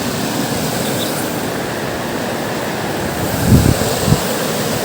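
Waterfall rushing: a steady roar of falling water, with two brief low bumps near the end.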